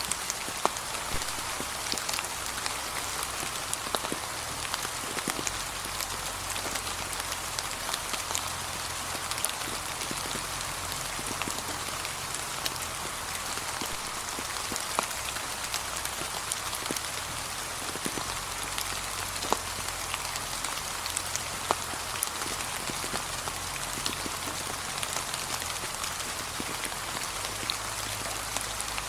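Gentle, steady rain falling on a path of fallen leaves, with the sharper ticks of single drops scattered through it.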